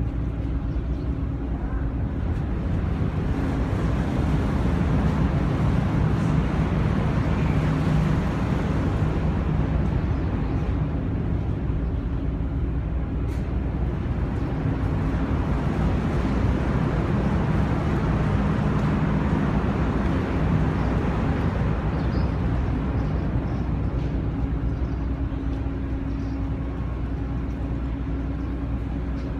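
Steady low engine drone with a constant rushing noise, as heard aboard a moving vehicle or vessel.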